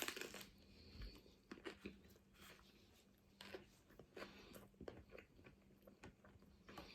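Faint, irregular crunching and clicking of someone chewing and biting food close to the microphone.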